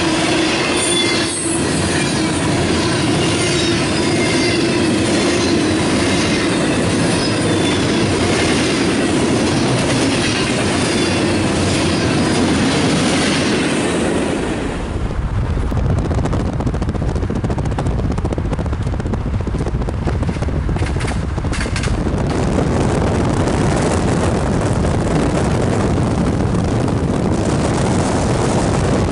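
Electric passenger train passing close by, its wheels rolling and squealing on the rails over a steady hum. About fifteen seconds in, this gives way to a steady low rumbling noise.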